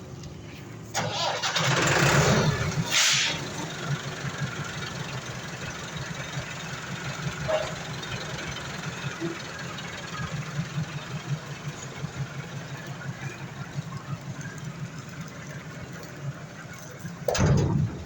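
Tractor engine starting about a second in with a loud burst of noise, then running steadily with a rapid low chug. Another loud burst of noise comes near the end.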